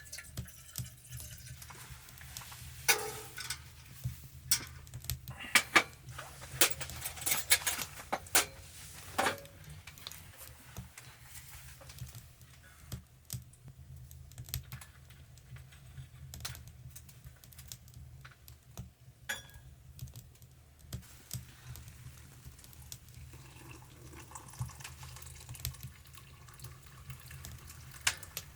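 A run of sharp, irregular clicks and light knocks, thickest in the first third and then sparser, like small hard objects or utensils being handled, over a steady low hum.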